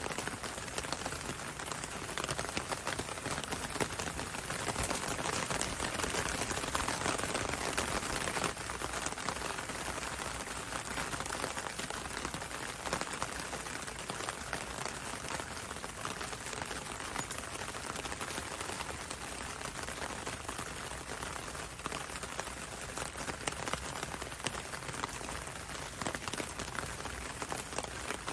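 Steady rain falling on a window and a road, a dense hiss with many sharp individual drop ticks; it swells slightly about four seconds in and eases again a few seconds later.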